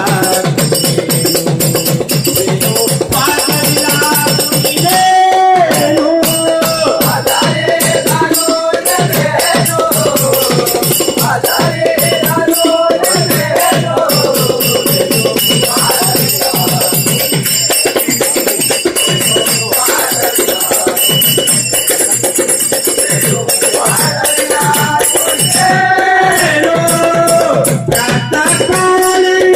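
Devotional bhajan music: a steady, fast hand-drum beat with constantly ringing, jingling percussion and a gliding melody line over it.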